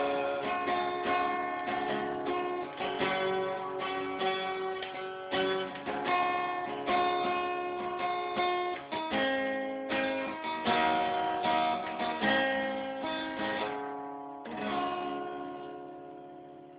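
Guitar strumming the closing chords of a song with no singing. The strumming thins out and the last chord rings and fades over the final few seconds.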